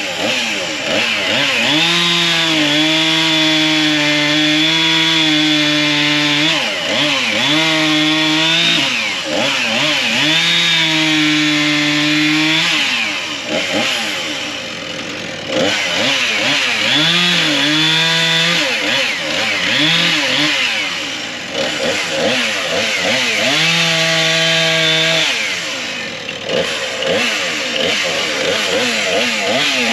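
Chainsaw bucking logs into firewood lengths, its engine revving up and easing off again and again, with several spells of a few seconds held at full throttle.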